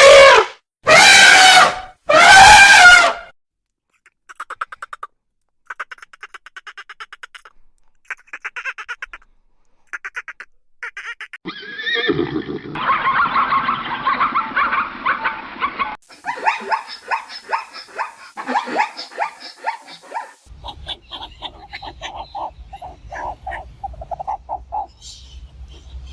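A series of different animal calls in turn, beginning with three loud, drawn-out neigh-like calls in the first three seconds, followed by quieter rapid stuttering calls and further animal sounds.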